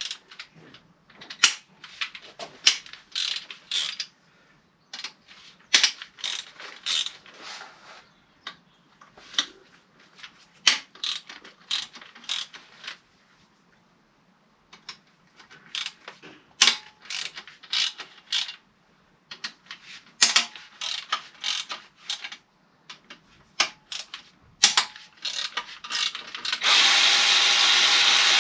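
Ratchet socket wrench clicking in quick bursts with pauses between, as 13 mm bolts clamping the manifold at the back of the engine are undone. Near the end a steady loud hiss starts and holds.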